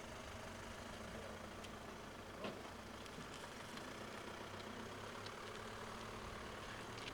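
A steady hum of an idling engine, with a few faint short clicks, one a little louder about two and a half seconds in.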